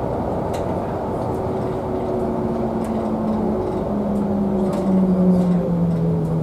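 A public transport vehicle running close by, its steady rumble joined by a humming tone that drops in pitch in several steps in the second half.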